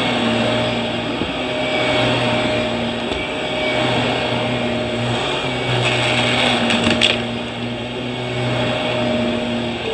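Vacuum cleaner running steadily, with a brief louder burst of hiss and clicking about seven seconds in.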